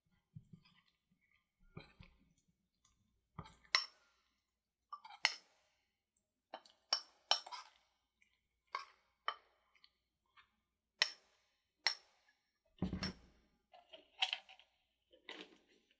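Kitchen utensils and dishes clinking and tapping in separate, irregular knocks, with a few fuller, deeper knocks near the end.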